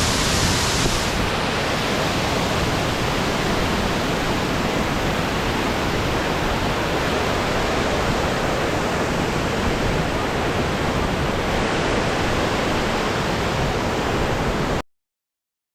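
Steady rushing of a large waterfall, heard close to its base. It cuts off suddenly near the end.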